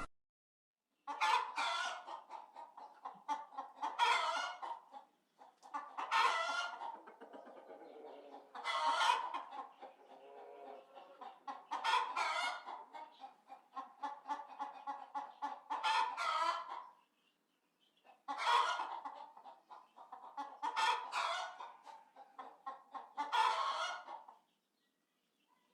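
Chickens clucking, with a louder call standing out every two to three seconds; the clucking stops briefly about two-thirds of the way through, then resumes and ends shortly before the close.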